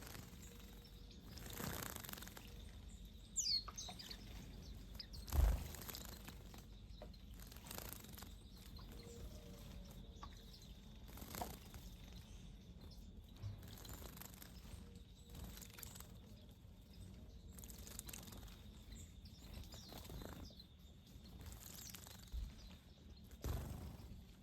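Small wild birds bathing at a bird bath: repeated short splashes and wing flutters, with an occasional faint chirp. A louder thump comes about five seconds in and another near the end.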